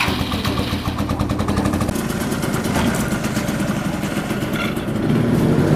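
Two-stroke moped engine running with a fast, rattly beat, coming in suddenly at the start and getting louder about five seconds in.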